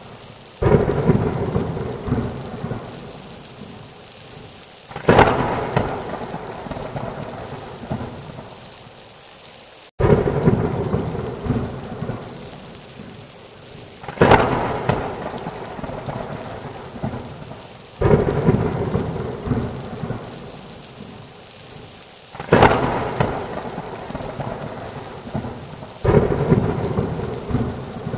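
Thunderclaps over steady rain: seven sharp cracks of thunder, about every four seconds, each fading away into a rumble.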